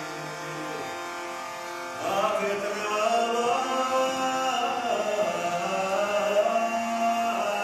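Voices singing a drawn-out melody, quieter at first and then louder from about two seconds in.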